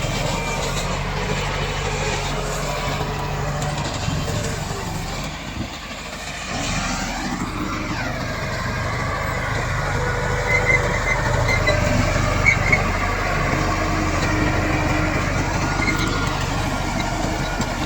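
Crawler bulldozer's diesel engine running steadily. It dips briefly about six seconds in, then climbs in pitch as it revs up, with a few short high squeaks later on.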